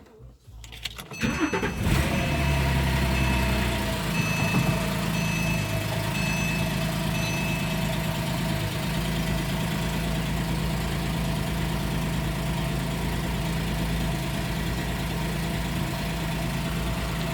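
2010 Porsche 911 Carrera S (997.2) 3.8-litre flat-six cranking for about a second, catching with a brief rev and then settling to a steady idle. A string of short electronic warning beeps sounds over the first several seconds of running.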